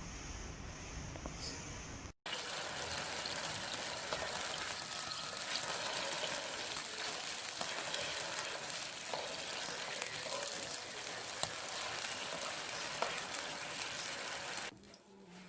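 Food frying in a pan: a steady sizzle with small scattered pops, which starts abruptly about two seconds in and stops just before the end.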